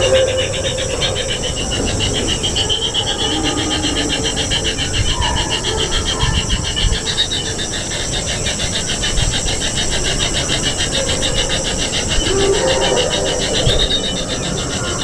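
Kingfisher nestlings giving a continuous, rasping, buzzing chorus of begging calls.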